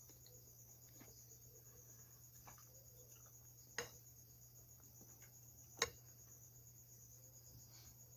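Near silence with a faint steady high-pitched drone and two short sharp clicks, about four and six seconds in.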